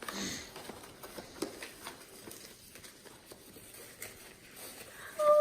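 Faint rustling and small clicks of a compact camera and its packaging being handled while it is unboxed. Right at the end, a person starts humming a steady note.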